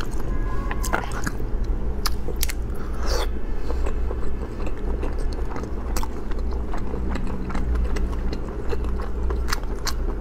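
Close-miked chewing and biting of marinated sea snail meat, with many short wet mouth clicks and smacks over a steady low hum.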